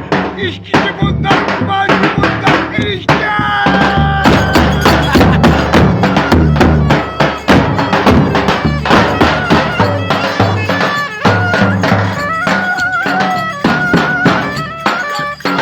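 Live Turkish folk dance music played by a band: rapid, steady drum beats under a wavering melody line.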